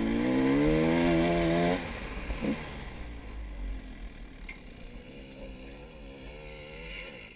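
Vehicle engine revving: its pitch wavers and then climbs, and it cuts off sharply about two seconds in. It revs again more faintly near the end.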